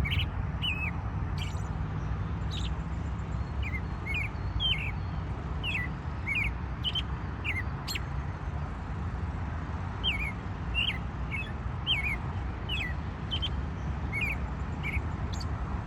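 A bird calling outside with short, repeated chirps, about one or two a second with brief pauses. A steady low rumble runs beneath.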